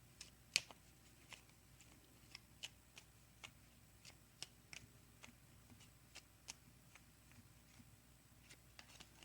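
Faint, scattered clicks and taps of oracle cards being handled, irregular and a second or less apart, over a low room hum.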